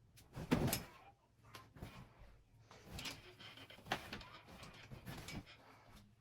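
Irregular short knocks, clicks and rustles of objects being handled, the loudest cluster about half a second in.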